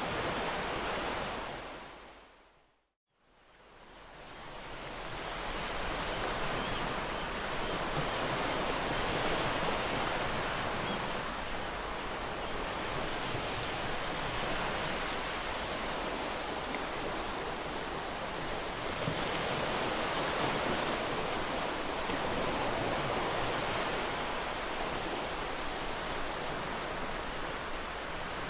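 Ocean surf: a steady wash of breaking waves on a shore. About three seconds in it fades out to silence, then swells back up over the following few seconds, like an edit or loop join.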